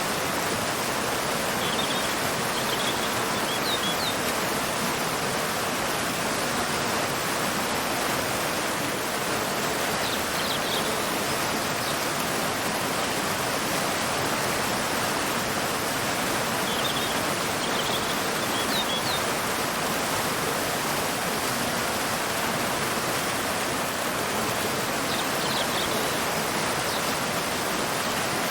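Waterfall pouring into a river: a steady, even rush of water. Brief, faint bird chirps come through it in four short clusters.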